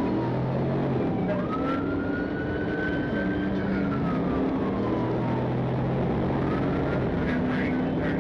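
Police siren wailing in a slow rise and fall over steady engine and road noise from a pursuing patrol car.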